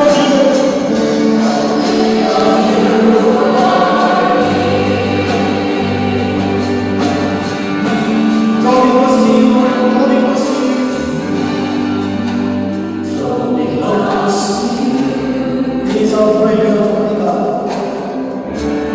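Gospel music with a choir singing over held low bass notes.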